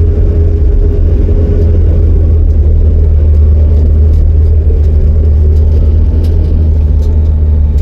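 Motor vehicle running, heard as a loud, steady low rumble with an engine hum.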